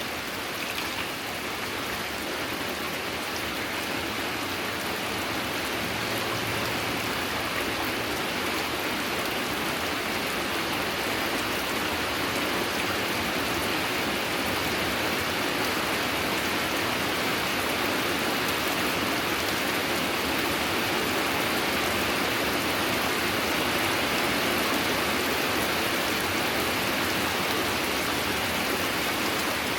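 Steady rain falling, growing slightly louder over the half-minute.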